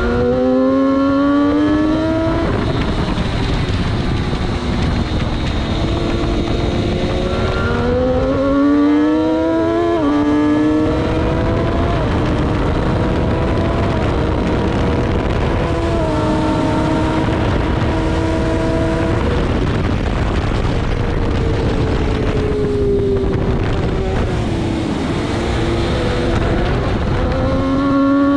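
600 Superstock sportbike engine at racing speed, its pitch climbing hard and dropping back at each upshift, holding fairly steady for several seconds mid-way, falling as the bike slows, then climbing again near the end. Heavy wind rush under the engine note.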